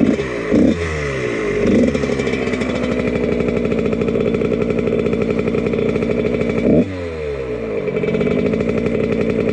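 1999 Husqvarna CR125 two-stroke single-cylinder engine running through a Pro Circuit exhaust. It is blipped several times in the first two seconds, runs steadily, then gives a sharp rev near seven seconds that falls off before it picks up again.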